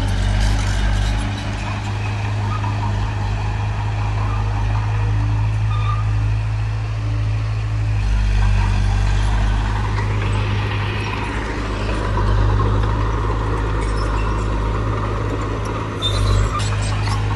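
Heavy diesel engine of earthmoving machinery running, its low drone dropping and swelling again as the load changes, with a few sharp knocks near the end.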